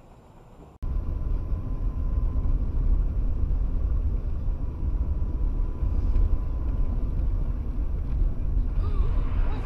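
Steady low rumble of a moving road vehicle, with a faint steady whine over it, starting abruptly about a second in.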